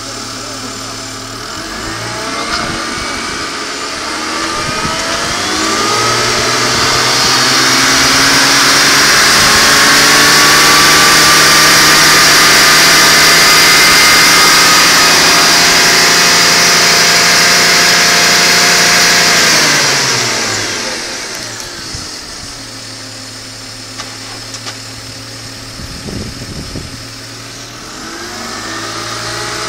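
BMW E39 520i's 110 kW straight-six revved up from idle, held at high revs for about twelve seconds, then dropping back to idle about twenty seconds in, with a brief rev again near the end. The engine runs evenly, which the owner judges ok, while fluid leaks from the cooler.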